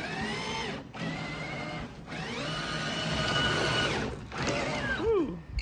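Axial SCX6 RC crawler's electric motor and drivetrain whining in throttle bursts as it pushes its plow through snow: the pitch rises and holds for about two seconds, twice, then a shorter burst glides down near the end.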